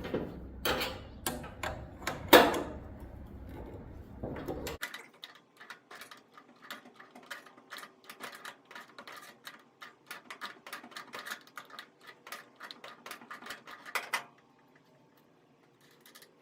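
Metal tools clicking and knocking on a dryer motor's pulley and shaft as the sheared motor pulley is unthreaded. A few sharp knocks come first, then a long run of quick light metallic clicks that stops suddenly near the end.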